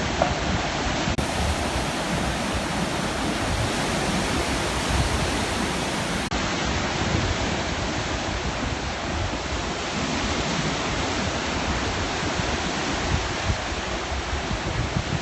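Sea surf: a steady rush of breaking waves with an uneven low rumble underneath.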